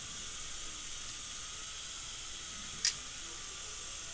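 Steady hiss from dental equipment running during implant cutting work, with one short sharp click about three seconds in.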